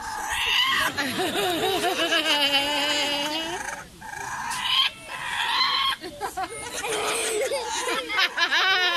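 Laughing kookaburra calling: a string of wavering, cackling notes in several bouts with short breaks between them.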